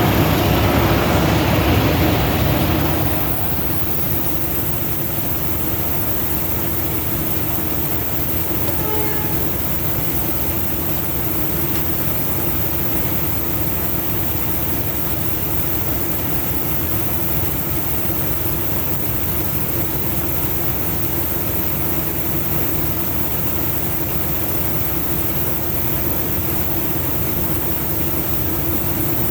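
Semi-truck diesel engine running steadily with a constant low drone. A louder hiss-like noise sits over it for the first three seconds, then drops away.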